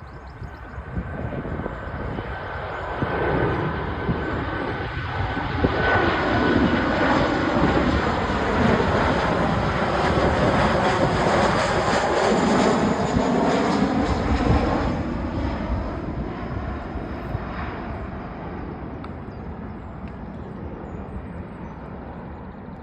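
Boeing 737-800 airliner on final approach flying past, its CFM56 turbofan engines at approach power: a rushing jet noise with a high whine builds over several seconds, stays loud for about ten seconds, then fades as the aircraft moves away.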